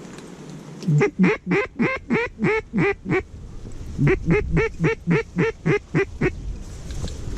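Mallard-hen quacking in two runs of about eight loud, evenly spaced quacks, each quack falling in pitch, with a short pause between the runs. Wind rumbles on the microphone underneath.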